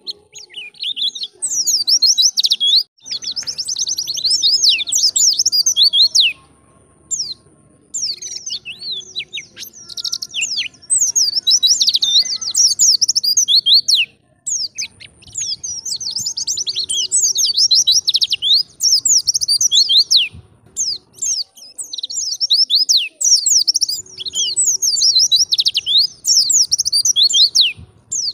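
White-eye (pleci) singing a fast, twittering song of rapid high chirps and trills, in runs of several seconds separated by brief pauses.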